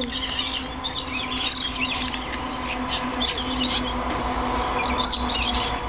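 A flock of lorikeets chattering with many short, high chirps and squeaks, over a steady low hum.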